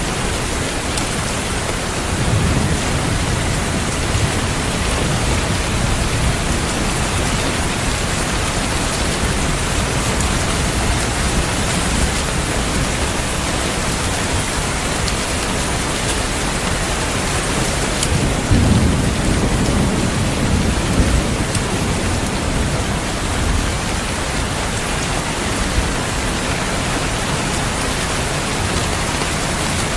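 Steady heavy rain with low rolls of thunder: one rumble a couple of seconds in and a louder one a little past the middle.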